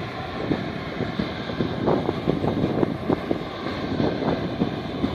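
Airbus A330's Rolls-Royce Trent 700 turbofans at takeoff power: a steady rumbling jet roar with many short crackles through it.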